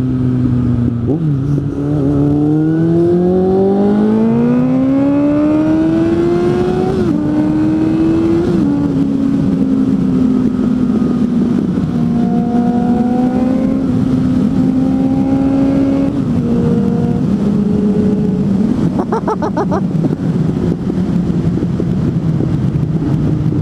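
Suzuki GSF 600 N's four-cylinder engine pulling hard through a gear under way. Its pitch climbs steadily for about six seconds, drops at a shift and climbs briefly again, then holds an even cruising note for the rest of the time with a couple of small dips.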